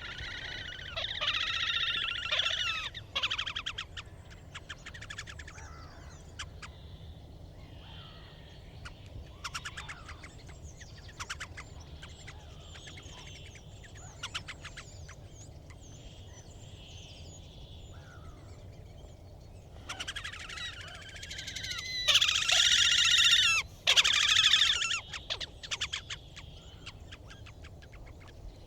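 Slavonian grebes giving loud rippling, squealing trills: one bout in the first few seconds and a louder one about twenty seconds in, with fainter calls between.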